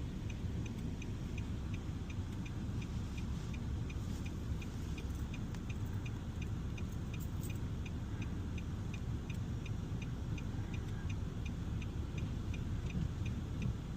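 Inside a moving car: a steady low rumble of engine and tyres, with the indicator relay ticking evenly about three times a second.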